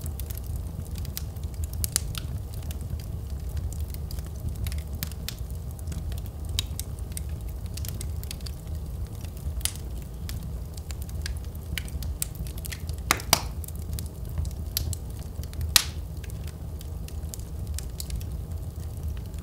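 Wood fire burning in a fireplace: a steady low rumble of flames with irregular crackles and pops. The sharpest pops come about two-thirds of the way through.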